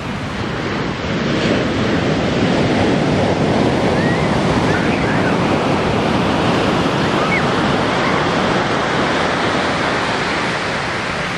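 Ocean surf breaking and washing up a beach: a wave swells about a second in, then the rush of water slowly eases away.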